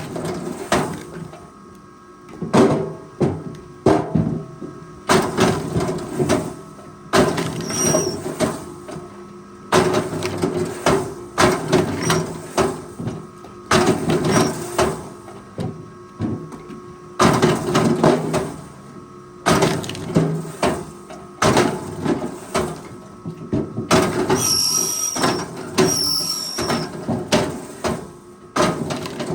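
Forestry machine at work: a steady engine tone under repeated clanks and knocks, with brief high squeals a few seconds before the end.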